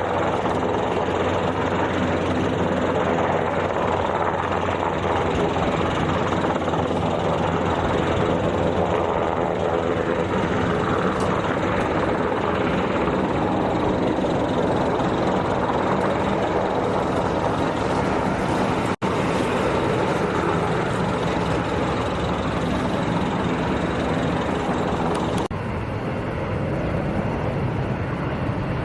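Military aircraft engines running, a steady loud noise with a low hum. The sound cuts out for an instant about 19 seconds in and turns a little quieter near the end.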